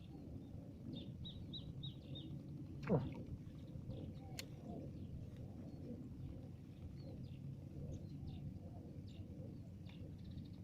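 Small birds chirping in short high notes, with a quick run of about five notes around a second in and scattered chirps after. About three seconds in comes one loud, steeply falling glide. A low, steady outdoor rumble runs underneath.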